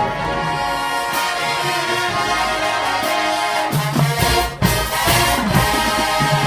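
Marching band brass section playing a slow soul ballad arrangement, sustained chords from trombones and trumpets; a little past halfway the chord breaks off briefly and the low brass comes back louder with drum hits.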